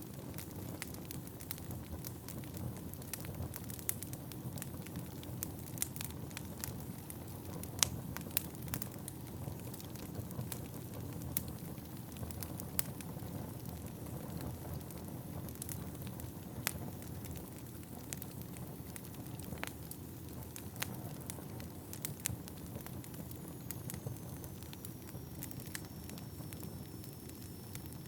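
Wood fire burning in a fireplace: a steady low rush of flame with frequent sharp crackles and pops from the burning logs. A faint thin high whistle comes in near the end, falling slightly in pitch.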